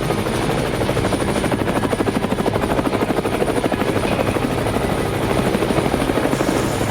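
Helicopter rotor chopping in a fast, even beat, steady throughout.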